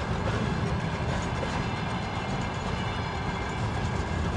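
Freight train wagons rolling past, a steady rumble of steel wheels on the rails.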